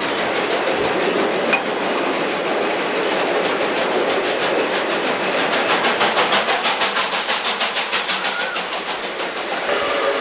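Steam-hauled broad-gauge passenger train running on the rails: a steady rumble and clatter, with a rapid rhythmic beat of about five a second through the middle that fades near the end.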